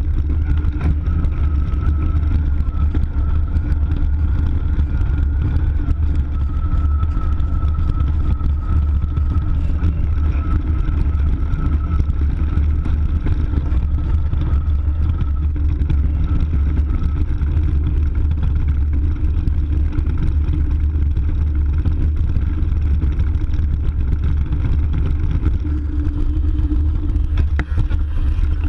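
Riding noise of an electric mountain bike with a Bosch mid-motor: a steady low rumble throughout, with a faint steady whine above it that fades away a little past halfway.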